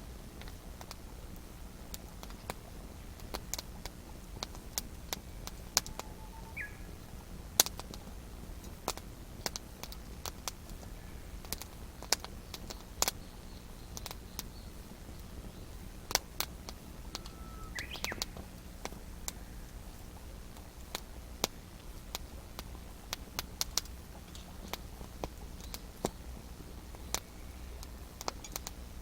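Wood campfire crackling, with irregular sharp pops and snaps. A few short bird calls come through, around six seconds in and again around eighteen seconds in.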